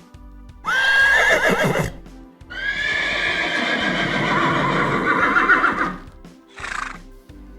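Horse whinnying: a short neigh about a second in, then a long neigh of about three and a half seconds with a quavering pitch, over soft background music.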